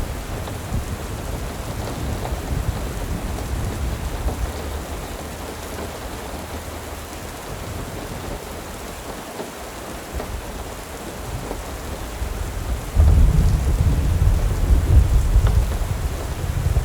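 Steady rain hiss over a deep low rumble. The rumble eases off in the middle and returns abruptly and louder about thirteen seconds in.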